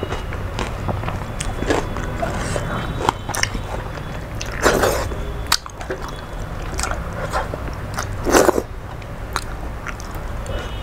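Close-miked eating: chewing and wet mouth sounds of rice and curry, with fingers mixing food on a stainless steel plate, over a steady low hum. Two louder bursts come about halfway and near the end.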